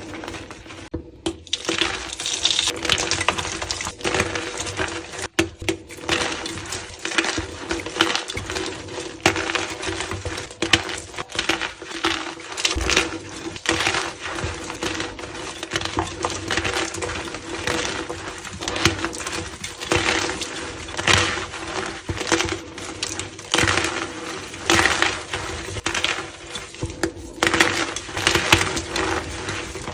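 Blocks of gym chalk being crushed and crumbled, a dense run of crisp crunches and crackles with a faint steady hum underneath.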